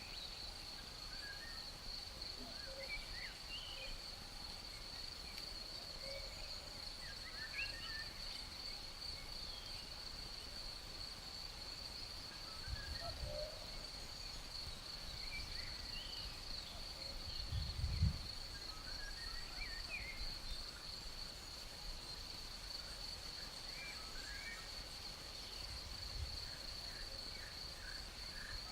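Insects keep up one steady high-pitched trill, with short bird chirps scattered throughout. A few low rumbles come through, the strongest about 18 seconds in.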